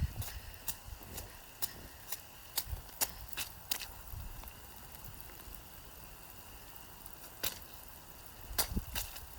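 Irregular sharp clicks and taps close to the microphone, over a faint steady hiss. They come thickly for the first few seconds and sparsely after that, with low thumps near the start and again near the end.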